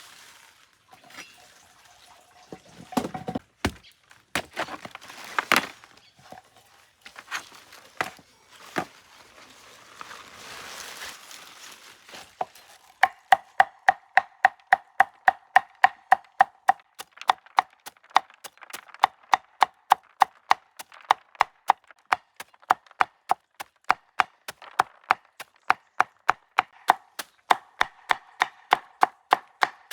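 Food being chopped with a knife on a cutting board: quick, even strokes about three a second, starting about halfway through. Before that come scattered knocks and clatter.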